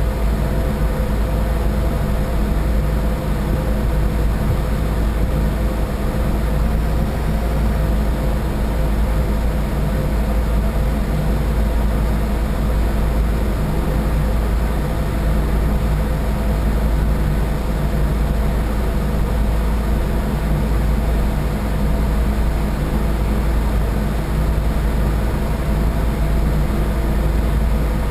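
A boat's engine running at a steady cruising speed. It makes a deep, unchanging drone with a low rumble and a stack of steady hum tones, over a hiss of noise.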